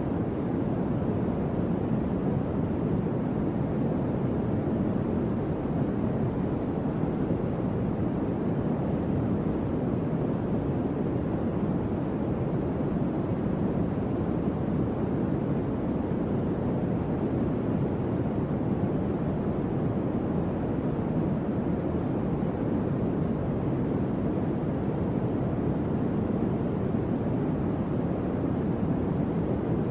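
Electric fan running steadily: an even, low whooshing hum of moving air, with no clicks or changes.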